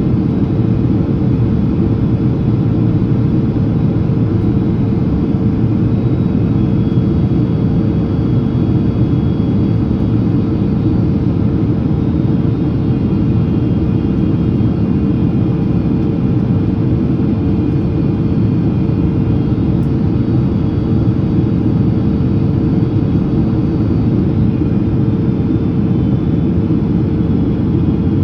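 Steady cabin noise inside a Boeing 767-300ER descending on approach: a deep, even rush of engine and airflow noise with a constant hum on top.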